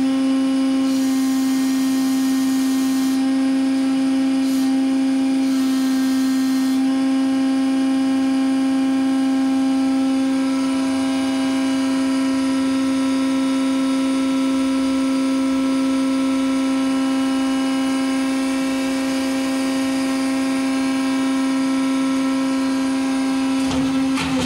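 Hydraulic pump of an Eaton Leonard CNC tube bending machine running with a steady pitched whine. A short clatter comes near the end.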